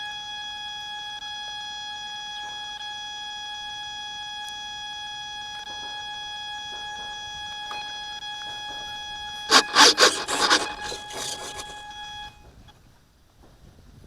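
A steady high-pitched tone with overtones, cutting off about twelve seconds in. About nine and a half seconds in, a few seconds of loud rubbing and knocking handling noise on the microphone.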